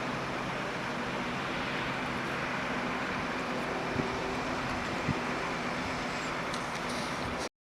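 Train running with a steady rumble and a low engine hum, with two short clicks partway through. It cuts off suddenly near the end.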